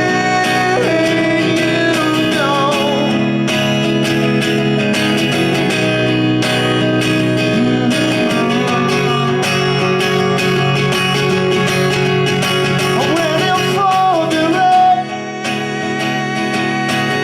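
Live song: a strummed guitar with a male voice singing over it. The sound swells briefly near the end, then drops back.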